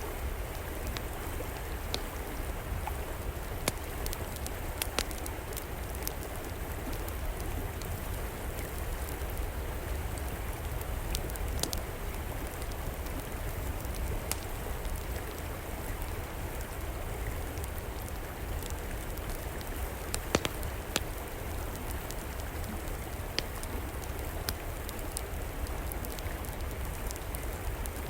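Steady rush of a flowing river, with a wood fire crackling over it in scattered sharp pops.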